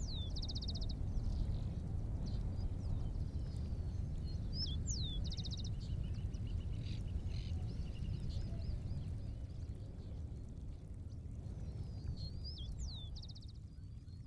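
Outdoor ambience: a steady low rumble with a songbird repeating the same short phrase three times, a quick downward whistle followed by a fast trill, near the start, about five seconds in and near the end, with a few faint chirps between.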